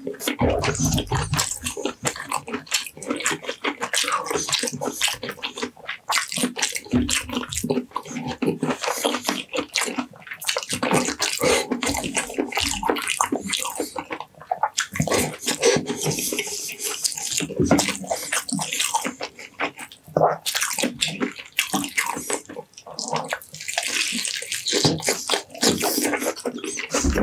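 Close-miked eating: wet chewing and lip-smacking on baked lamb leg and rice, a dense, unbroken run of sticky clicks and squelches.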